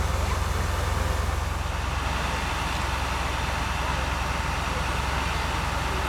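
Fire engine's engine running steadily: a low, evenly pulsing rumble under a haze of outdoor noise.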